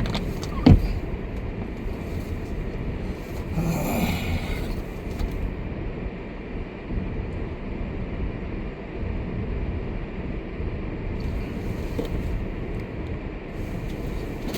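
Steady low rumble of a car's engine and tyres heard from inside the cabin while driving slowly on snowy, unsalted streets. A single knock sounds just under a second in, and a brief hiss comes about four seconds in.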